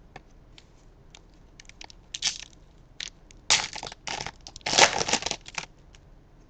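Crinkling and crackling of a foil trading-card pack wrapper being torn open and handled. It starts with a few light clicks, then comes in several loud crackling spells.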